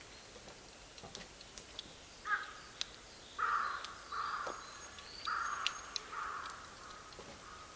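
A bird calling five times: a short call about two seconds in, then four half-second calls in two close pairs. Faint sharp pops of burning charcoal crackle underneath.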